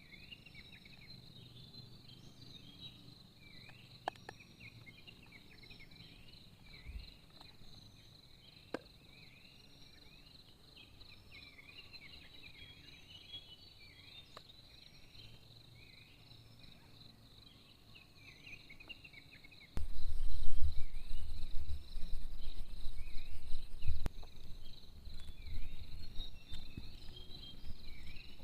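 Insect chorus: a steady high buzz with many short repeated chirps over it, and a few faint clicks. About two-thirds of the way through, a loud low rumble starts suddenly and goes on, rising and falling in level, to the end.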